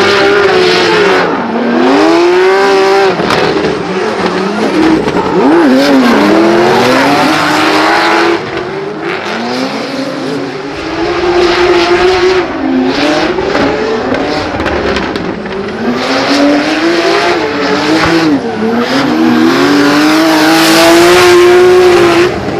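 Turbocharged B58 3.0-litre inline-six of a drifting Toyota GR Supra, revving up and falling back again and again, with sharp anti-lag pops and tyre squeal.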